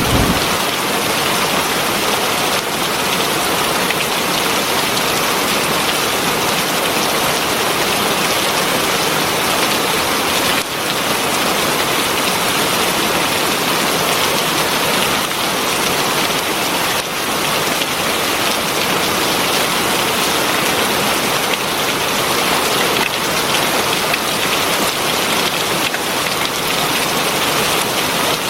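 Heavy rain falling steadily, an even, dense hiss of drops on surfaces.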